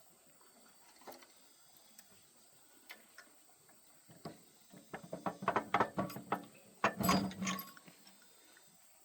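Metal clicks and clinks of hand tools and engine parts being handled during tractor engine work: a few scattered clicks, then a quick run of clicks and clinks in the second half.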